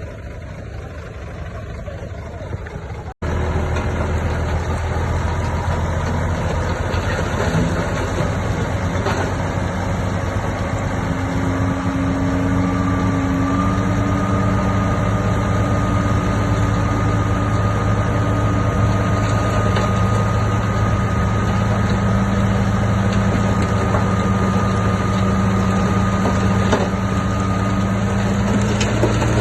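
Heavy diesel earthmoving machinery engine running steadily with a steady high whine. There is an abrupt cut about three seconds in, after which the engine is louder.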